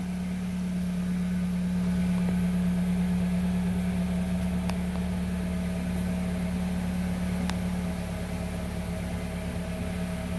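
2011 Kia Rio's 1.6 L four-cylinder engine idling steadily, with a constant hum.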